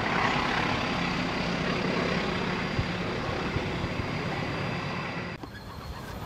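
Diesel-hauled passenger train running on a distant stretch of track: a steady engine hum with wheel and rail noise. The sound drops off suddenly about five seconds in, leaving a quieter background.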